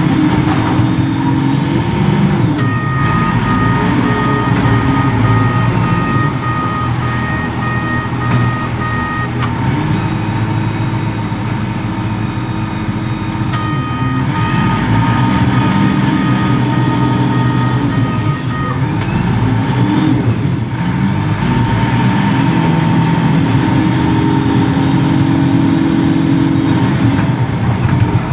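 A reach stacker's heavy diesel engine running and repeatedly revving up and down as the machine works. A high-pitched warning alarm beeps steadily in two spells of several seconds each.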